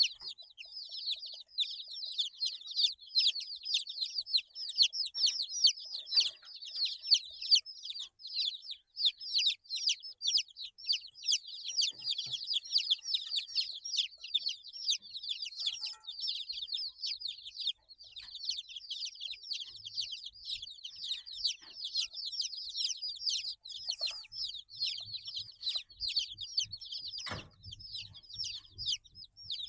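A brood of 8-day-old chicks peeping nonstop, many high, short, downward-falling chirps overlapping into a constant chatter.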